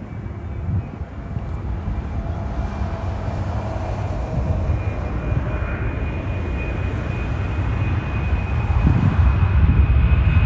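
Jet airliner engines, a DC-9's, growing steadily louder as the plane approaches: a deep rumble with a steady high whine.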